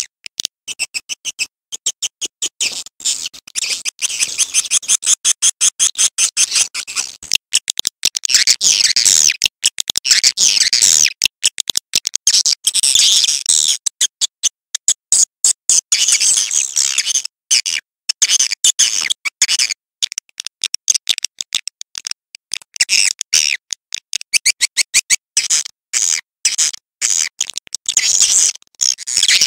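Swiftlet calls: dense, rapid high-pitched chirping and buzzy twittering, the chirps following one another in quick runs with brief breaks.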